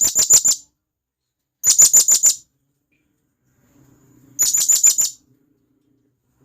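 Serindit hanging parrot giving loud, sharp, shrill contact calls to other serindit, in three quick bursts of four or five notes each, spaced about two seconds apart.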